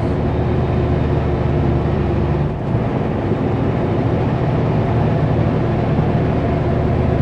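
Kenworth W900L semi truck's diesel engine running steadily, heard from inside the cab, with a brief dip in level about two and a half seconds in.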